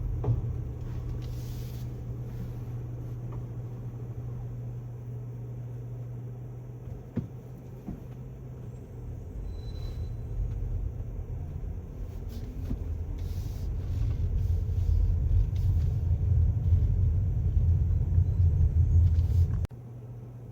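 Garbage truck's diesel engine running with a low rumble that grows steadily louder through the second half, then cuts off suddenly near the end.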